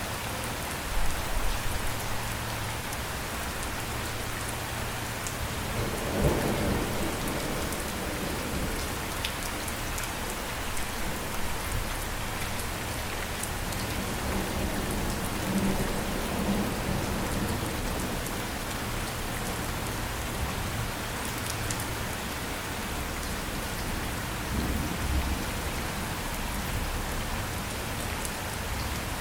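Steady rain falling, with low rolls of thunder swelling up several times: about a second in, around six seconds, mid-way and near the end.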